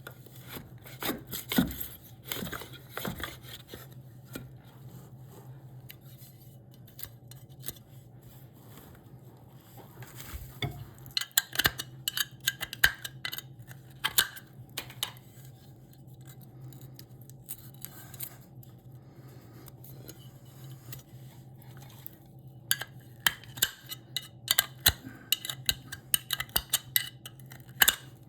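Hand tools working a piece of wood: quick sharp clicks, taps and scrapes in three bursts, near the start, around the middle and near the end, over a steady low hum.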